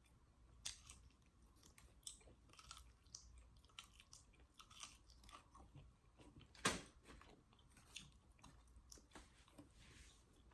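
A person biting and chewing crispy fried chicken close to the microphone: soft wet chewing with scattered small crunches and one much louder crunch about two-thirds of the way through.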